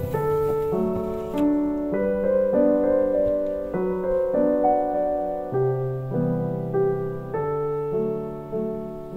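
Gentle background piano music: slow, sustained chords over a soft bass line.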